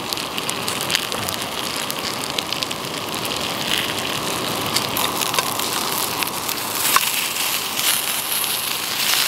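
Sliced red potatoes and asparagus sizzling and crackling in a frying pan on a gas canister stove. Near the end a spatula stirs them, with a sharp click about seven seconds in.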